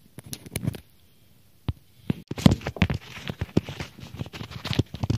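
Irregular clicks, taps and knocks from hands working with parts and tools: a few at first, then a dense clatter from about two and a half seconds in.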